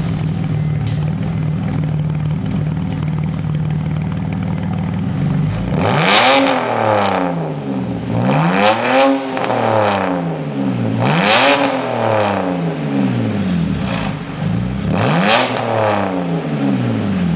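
2007 BMW Z4's straight-six engine idling through an exhaust with the muffler and secondary catalytic converter bypassed, then revved four times, each rev climbing and dropping back to idle.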